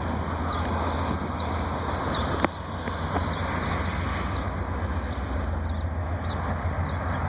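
Steady low vehicle rumble with wind noise on the microphone, faint high chirps repeating throughout, and one sharp click about two and a half seconds in.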